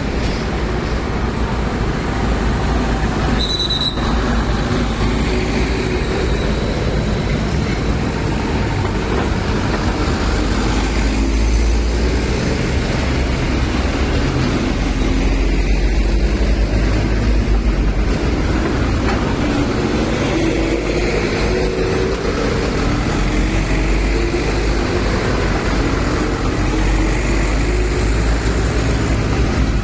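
Loaded sugarcane trucks' diesel engines running as they pass, with a steady heavy low rumble. One engine climbs in pitch for several seconds past the middle as a truck pulls away. A short high squeal sounds about three and a half seconds in.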